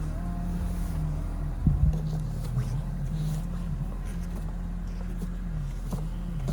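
Car engine idling steadily with a low hum, with a couple of sharp knocks about two seconds in.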